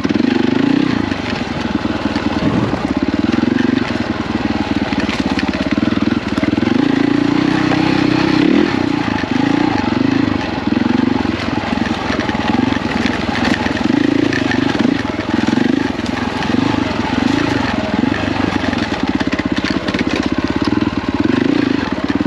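KTM 450 EXC enduro motorcycle's single-cylinder four-stroke engine running hard on a trail ride, its note rising and falling continuously with the throttle.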